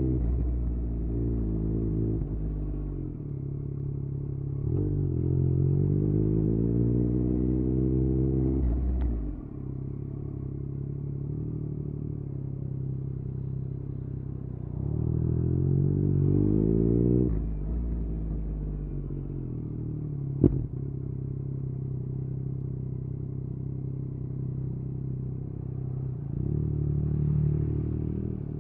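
Yamaha MT-09's three-cylinder engine through an Akrapovic exhaust, riding in stop-and-go traffic. Twice it accelerates with a steeply rising pitch, then drops back to a low steady rumble while cruising or idling. A single sharp click comes about two-thirds of the way through.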